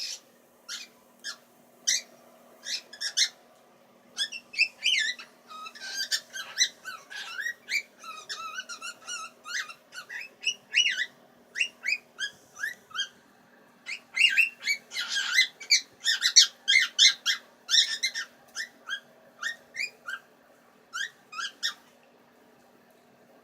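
Pet bird singing: a long run of sharp, high chirps and warbling whistles, densest in the middle and stopping about a second before the end, over a faint steady hum.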